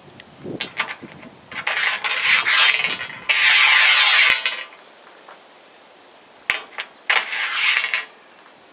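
Metal scraping and rasping in three bursts, the loudest in the middle, with a few sharp clicks between them.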